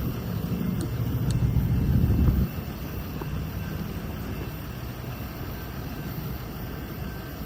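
Low rumble of a diesel freight train running past. It grows to its loudest about two seconds in, drops suddenly, then carries on more quietly.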